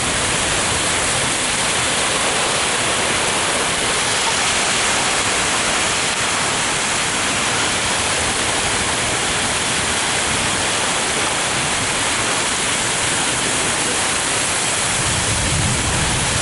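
Heavy rain pouring in a thunderstorm, a steady loud hiss, with a low rumble of thunder building near the end.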